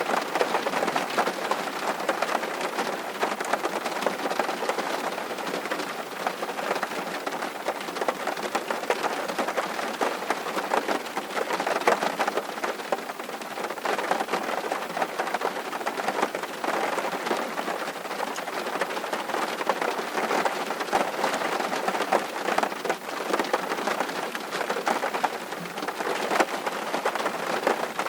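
Steady rain falling on a surface, a dense patter of individual drops at an even level.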